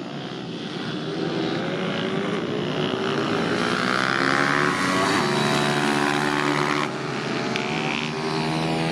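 Pit bike's small motorcycle engine running hard on the track, its buzzing pitch climbing and falling as the rider opens and closes the throttle, with a dip in level about seven seconds in.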